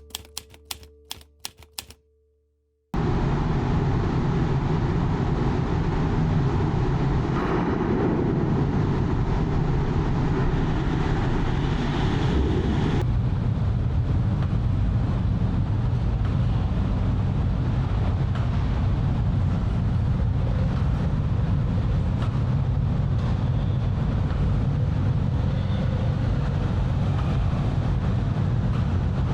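A few sharp clicks that fade out, a moment of near silence, then about three seconds in a steady rushing noise with a low rumble sets in: wind on the microphone and the ferry's rumble as the ship is under way.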